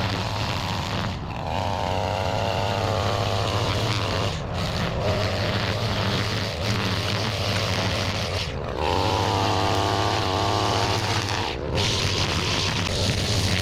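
String trimmer running steadily while cutting tall weeds and grass. A higher whine comes in twice, about a second in and again near nine seconds in, each lasting a few seconds.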